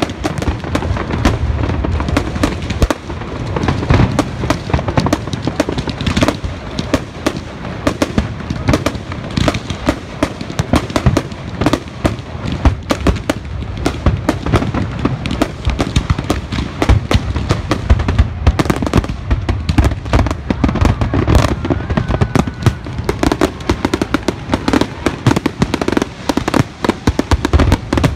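Fireworks going off in a dense, continuous barrage of sharp bangs and crackles over a low rumbling boom.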